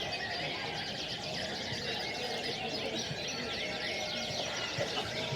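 Many canaries singing at once in a dense chorus of fast trills and chirps, over a low murmur of crowd voices.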